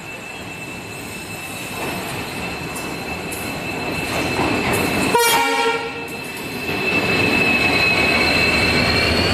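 Diesel-hauled express train approaching and passing along a station platform: the rumble of the locomotive and wheels builds steadily, with a steady high whine running through it. The locomotive gives one short horn blast about five seconds in, and its noise is loudest over the last couple of seconds as it goes by.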